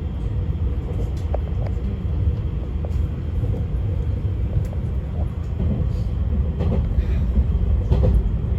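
Izukyu 2100 series 'Resort 21' electric train heard from inside the car while running: a steady low rumble of wheels on rail with scattered faint clicks, growing a little louder in the second half.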